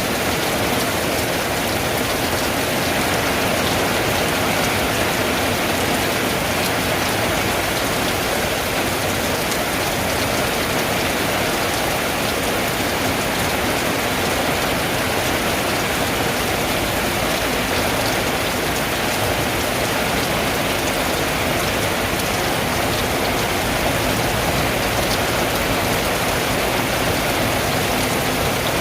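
Steady rain falling on a tin roof, even and unbroken throughout.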